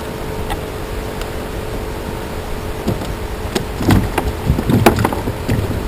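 Fishing reel cranked with a steady whir, drawing in two hooked fish at once. A few sharp knocks and clicks come in about three and a half seconds in.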